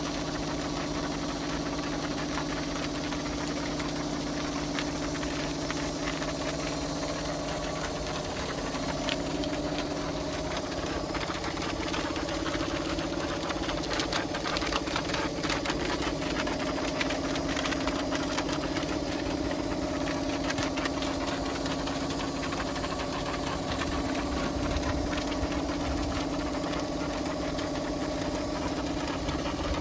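Pressure washer running steadily: a constant motor hum under a hiss of water spray, with scattered small ticks and spatters.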